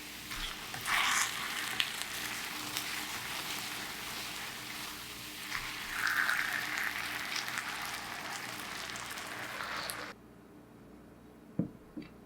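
Chicken thigh sizzling in a frying pan: a dense, steady sizzle that swells briefly twice, then cuts off abruptly near the end, followed by a couple of soft knocks.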